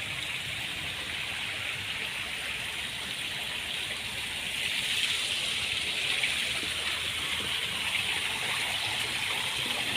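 Steady rushing of running water, growing a little louder about halfway through.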